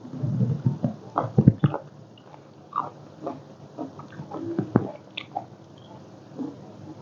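A person biting and chewing a mouthful of squid close to the microphone: irregular wet smacks and clicks, busiest in the first five seconds and then quieter.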